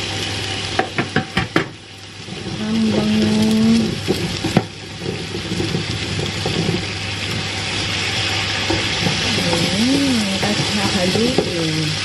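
Cauliflower and other vegetables sizzling as they fry in oil in a metal roasting tray, stirred with a wooden spatula. A run of sharp knocks of the spatula and vegetables against the pan comes about a second in, and a single louder knock about four and a half seconds in.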